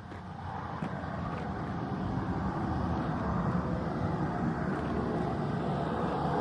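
Cessna Caravan's single turboprop engine running as the aircraft approaches, growing steadily louder.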